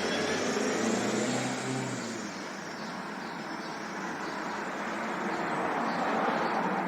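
City traffic ambience: steady road noise from passing cars, swelling as a vehicle goes by in the first two seconds and again near the end.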